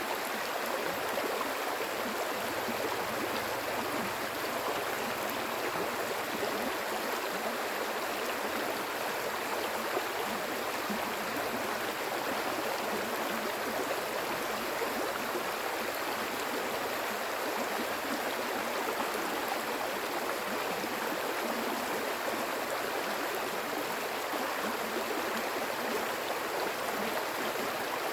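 Stream water flowing steadily over rocks, an even rushing and babbling without pause.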